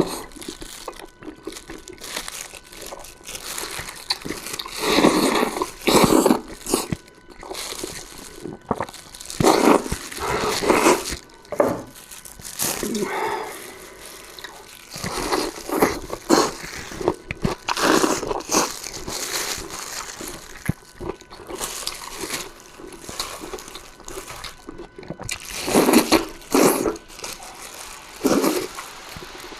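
Close-miked eating: a person chewing and slurping soft, tender stewed food, in irregular wet bursts.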